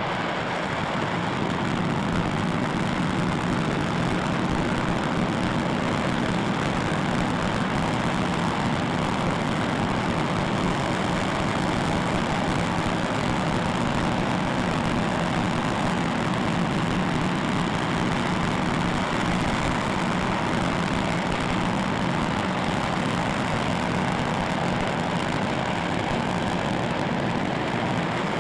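Rocket engine firing in a test, a loud, steady, unbroken rush of noise with a strong low rumble.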